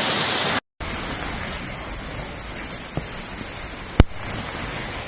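Heavy rain and hail pouring down in a steady, dense hiss, which breaks off briefly just over half a second in and resumes. A single sharp knock stands out about four seconds in.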